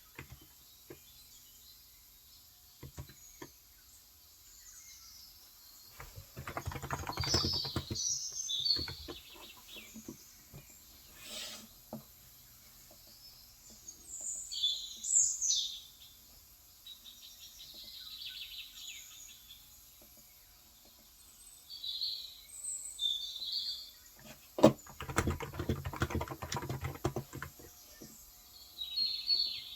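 Two spells of typing on a Cox Endeavor electro-capacitive (Topre-style) keyboard with 35 g keys, the first a few seconds in and the second near the end. Small birds chirp high and briefly now and then in between.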